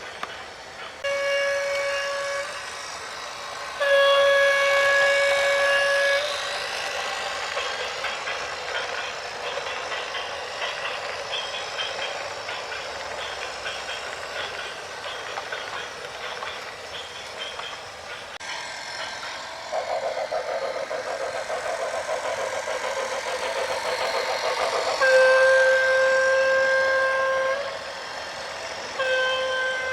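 A horn sounding four long blasts, each a single steady note, over a continuous running noise of a vehicle or machinery.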